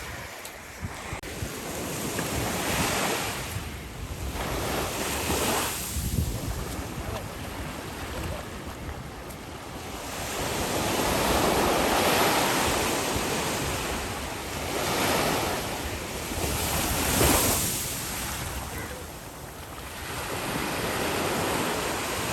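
Sea surf washing onto the shore, swelling and fading every few seconds, with wind buffeting the microphone.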